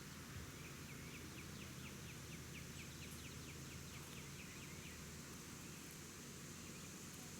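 A songbird singing a trill: a run of quick down-slurred notes, about five a second, lasting about four seconds, over steady outdoor background hiss.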